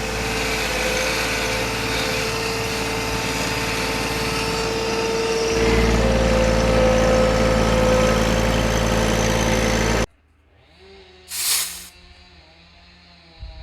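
An engine running steadily, its pitch stepping up slightly about halfway through, then cutting off suddenly; after it, a much quieter stretch with one short whoosh.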